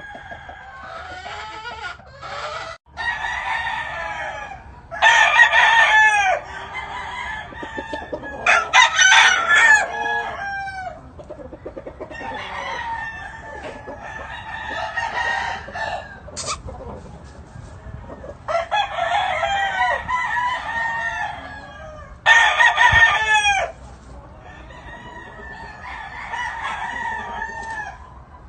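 Gamecock roosters crowing over and over, several loud crows overlapping, with steady clucking from other chickens between them.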